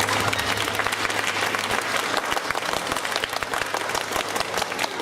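Audience applauding steadily after a song ends.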